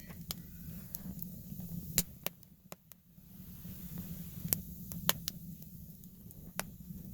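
Wood fire crackling in a wood-burning stove: sharp pops at irregular intervals over a steady low background hum.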